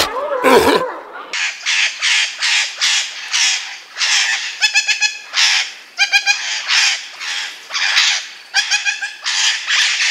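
Sun conures squawking: harsh, loud screeches repeated about twice a second, some with a shrill pitched edge. Before that, a fur seal calls for about the first second.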